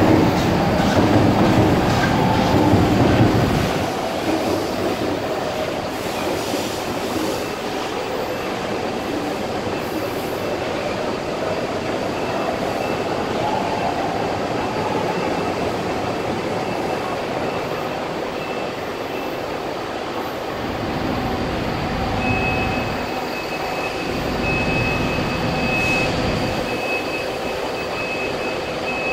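Electric metro trains moving through a station. A heavy low rumble of a train passing close fills the first few seconds, followed by steady rolling wheel-on-rail noise. In the last several seconds a thin, high wheel squeal comes and goes.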